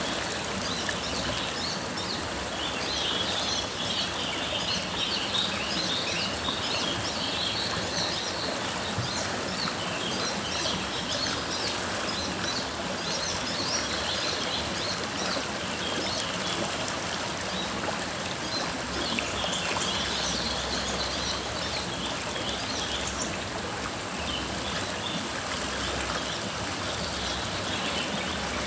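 River water flowing steadily, with birds chirping in bursts over it, mostly in the first several seconds and again about twenty seconds in.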